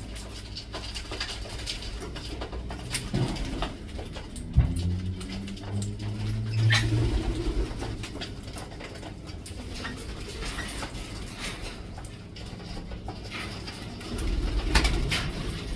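Pet birds calling, with scattered short clicks and taps.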